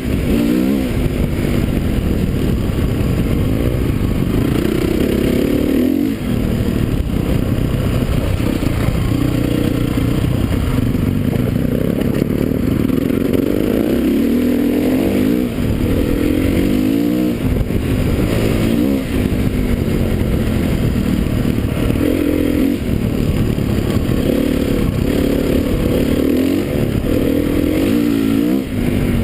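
Motocross motorcycle engines revving hard, their pitch climbing and dropping again and again as the riders open the throttle and shift.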